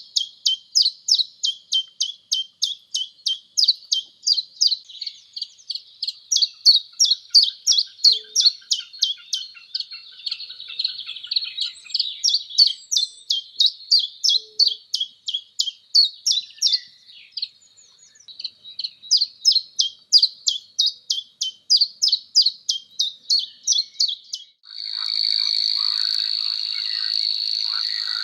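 Birds chirping: a long, fast run of short, high, repeated chirps, several a second, pausing briefly now and then. About 24 seconds in this gives way abruptly to a loud, steady, high buzzing trill.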